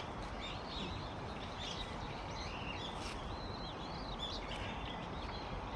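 Small birds chirping repeatedly in quick short calls over a steady outdoor background hiss, with a single sharp click about three seconds in.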